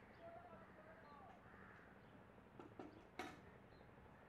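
Quiet outdoor ambience with faint bird calls, short chirps that rise and fall in pitch, in the first second or so. A few sharp clicks follow, the loudest about three seconds in.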